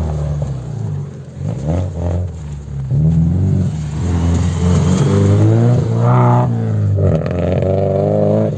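Subaru rally car's flat-four engine revving hard as it accelerates away on a snowy road, its pitch climbing and dropping several times as it changes gear.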